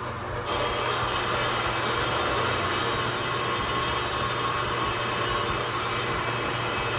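Aluminium being MIG-welded with a Miller 30 A spool gun: the arc burns as a continuous, steady hiss with a low hum underneath.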